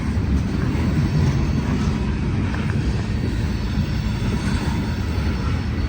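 Union Pacific freight train rolling past, a steady low rumble.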